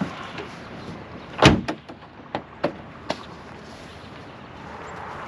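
A vehicle door shutting with one solid thump about a second and a half in, followed by a few lighter clicks and knocks.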